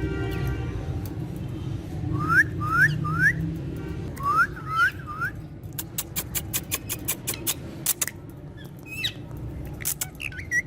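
Indian ringneck parrot giving short rising whistles, two runs of three, followed by a quick series of sharp clicks and a few more chirps near the end. Background music fades out in the first moment.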